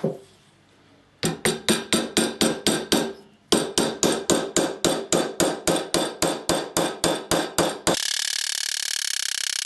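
A hand tool working wood in quick, even strokes, about five a second, in two runs with a short break between them. Near the end a power tool starts and runs steadily with a high, hissing whine.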